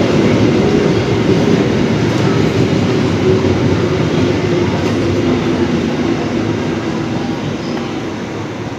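Empty cement freight train's wagons rolling past at speed: a steady rumble of wheels on the rails that fades over the last few seconds as the end of the train goes by.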